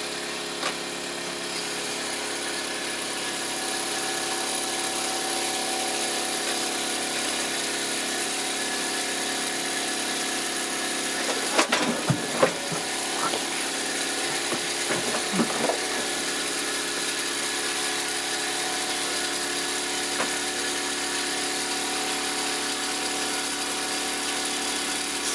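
Miniature toy steam tractor engine running steadily, with a few short knocks or clatters about halfway through.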